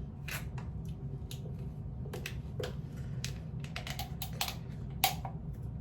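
A run of irregular small clicks and taps, like objects being handled, over a steady low hum, with one sharper click about five seconds in.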